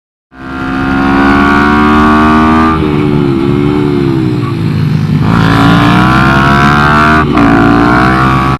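Small minibike racing engine running at high revs, easing off for about two seconds with its pitch dropping and wavering, then pulling up again. A brief click near the end; the sound starts and stops abruptly.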